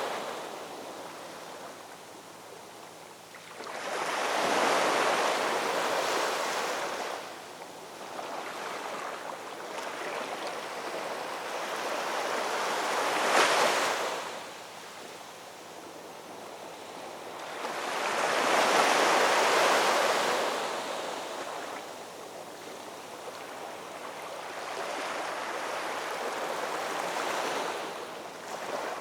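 Ocean waves breaking and washing on a shore, the surf rising and falling in repeated surges every several seconds, one of them cresting sharply about halfway through.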